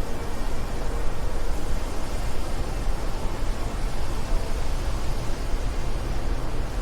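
Steady wind noise: an even rushing hiss over a deep, constant rumble, with no gusts rising or dying away.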